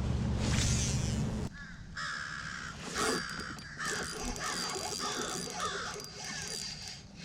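A low rumble for the first second and a half, then a bird calling over and over: a quick string of short, harsh calls, about two a second, from about two seconds in.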